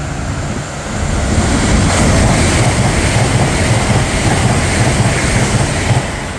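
Class 807 electric multiple unit passing through at speed: a loud rush of wheel, rail and air noise with a deep rumble that builds about a second in, holds, and falls away near the end.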